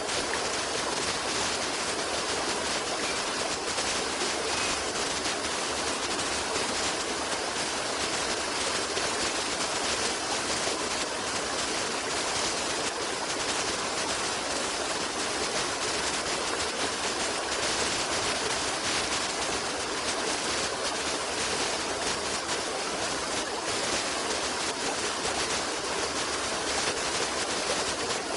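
Steady rush of running water, an even hiss and splash that does not let up.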